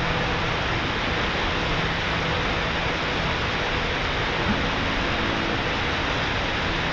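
Steady roar of a 30-metre waterfall's falling water. Faint held musical notes sit underneath, changing about two-thirds of the way through.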